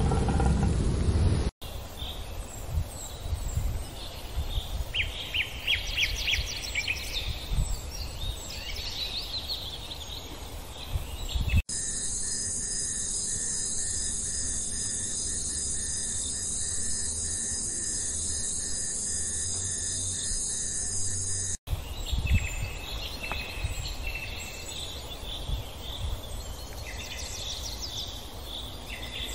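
Wild birds calling in short repeated chirps over outdoor ambience. A hard cut about a third of the way in changes it to a steady, high, multi-layered insect chorus. Another cut about two-thirds in brings back bird calls.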